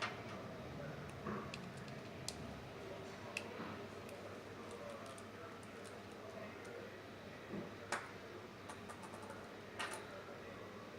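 Scattered sharp clicks and taps of small tools and a smartphone's plastic and metal parts being handled during disassembly, with a quick run of small ticks about nine seconds in, over a faint steady low hum.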